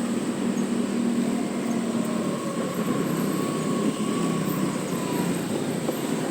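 Motor scooter running at riding speed amid city traffic: a steady engine drone mixed with road and traffic noise.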